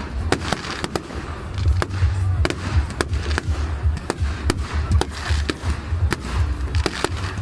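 Fireworks going off in a rapid, irregular series of sharp bangs and crackles over a constant low rumble.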